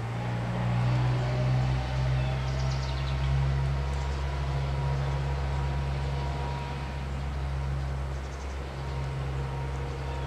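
Steady low-pitched hum of a motor or distant traffic, with a faint steady higher tone over it. A short run of faint high ticks comes about three seconds in.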